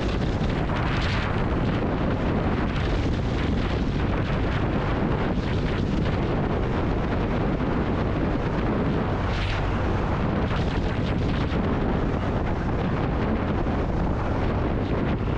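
Steady wind rushing over the microphone of a Kawasaki W800 Cafe motorcycle being ridden at speed, blending with its engine and road noise, with a couple of brief stronger gusts.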